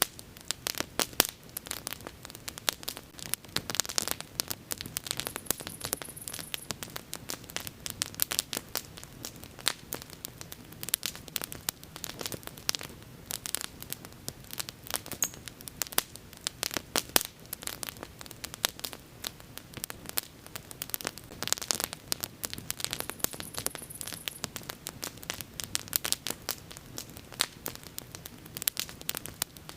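A wood bonfire crackling, with dense, irregular pops and snaps over the steady low rush of the flames.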